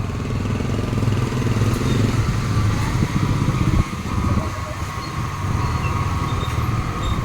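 Small motorcycle engine running steadily while riding along, with a brief dip in level a little under four seconds in.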